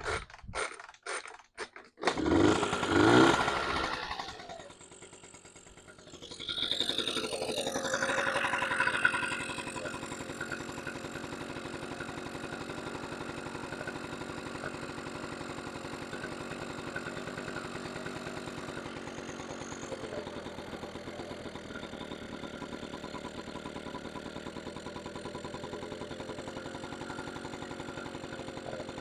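1977 Honda Express NC50's small two-stroke moped engine, its ignition ground freshly reconnected: a few clicks, then it revs up twice and settles into a steady idle.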